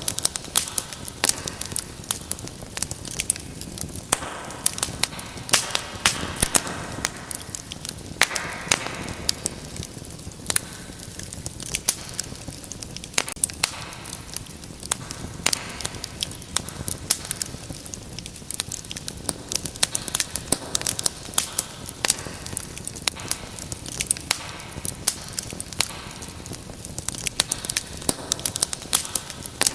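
Wood fire in a fireplace crackling steadily, with dense sharp pops and snaps over a soft hiss of flames that swells and fades every few seconds.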